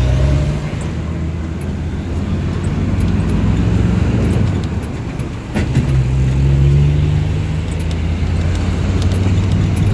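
Car engine and road noise, as heard from a moving vehicle. The engine hum grows louder twice, at the start and again about six seconds in.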